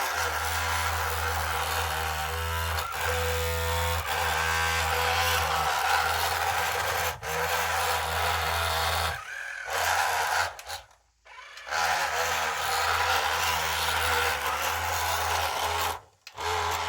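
Small electric motors and gearboxes of a radio-controlled model construction machine running steadily, with a low hum under a gritty whir. The sound breaks off abruptly several times.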